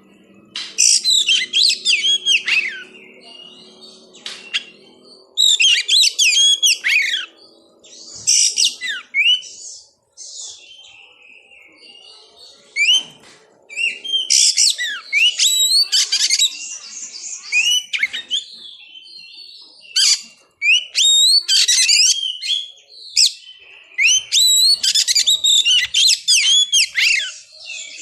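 Oriental magpie-robin (kacer) singing: loud phrases of rapid, varied high whistles and sweeping notes, each lasting a second or two, with short pauses between them.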